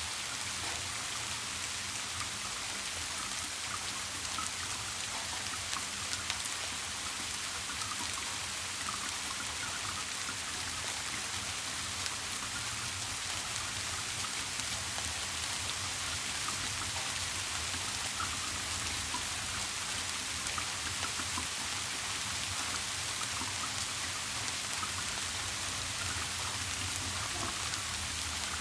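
Steady rain falling: an even hiss with scattered individual drops.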